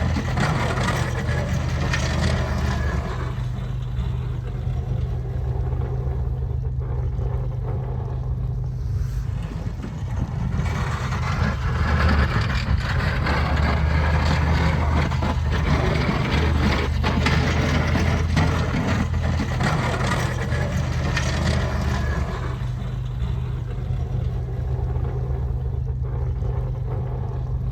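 Snowplow trucks with their engines running as they drive by: a steady low engine hum under a rushing noise that swells and fades several times.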